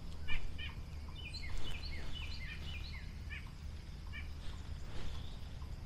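Small birds chirping and calling, many short notes, several gliding downward, over a steady low rumble.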